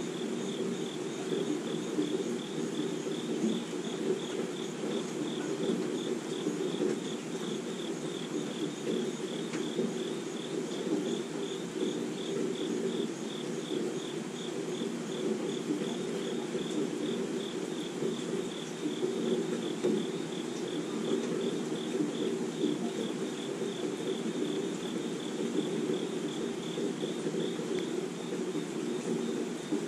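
Steady rainfall with insects chirping high-pitched in an even, pulsing rhythm above it.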